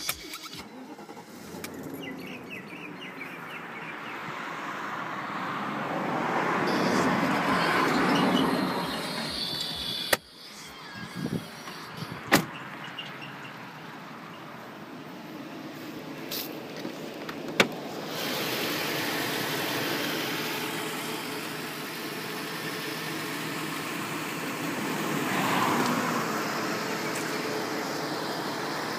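1997 BMW E38 7 Series engine running, its sound swelling and fading once a few seconds in. Several sharp clicks and knocks come through the middle.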